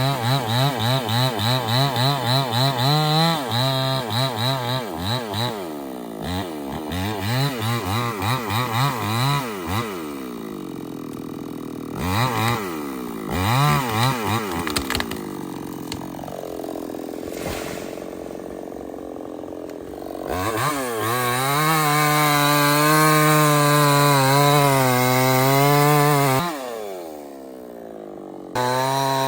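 Stihl 070 two-stroke chainsaw cutting into a teak trunk. Its engine note rises and falls in quick waves as it is throttled and loaded in the cut, then eases lower for a few seconds. It runs at a steady high pitch for several seconds, drops away near the end and comes back up.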